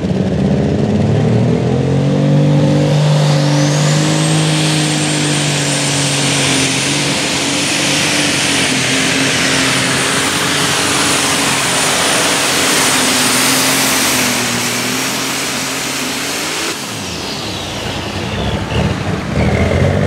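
Light super stock pulling tractor's turbocharged diesel under full power pulling the sled, with a high turbo whistle that climbs in the first few seconds and holds. About three-quarters of the way through the power comes off: the whistle winds down and the engine drops. Near the end the engine is heard again.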